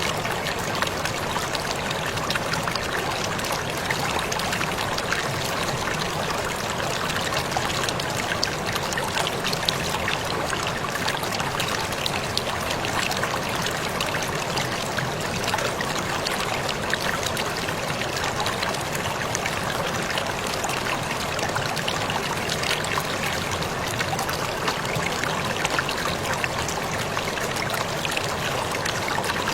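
Waterfall: a steady, unbroken rush of falling, splashing water.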